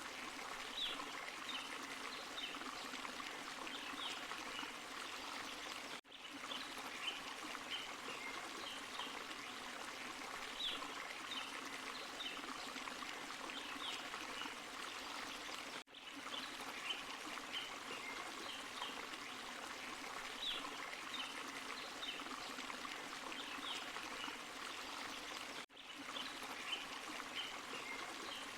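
Forest stream and small waterfall: a steady rush of running water. The sound drops out for an instant about every ten seconds, where the same stretch of recording repeats as a loop.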